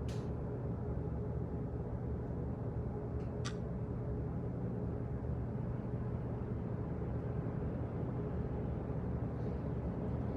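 Office background noise: a steady low hum, with two short clicks, one at the very start and one about three and a half seconds in.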